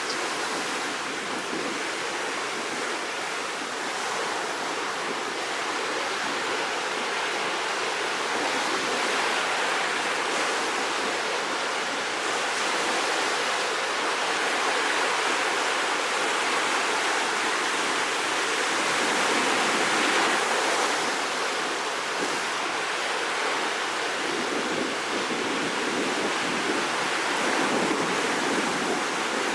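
Rough, storm-driven sea surf: waves breaking and washing in as a continuous rush that swells and eases every few seconds, loudest about two-thirds of the way through.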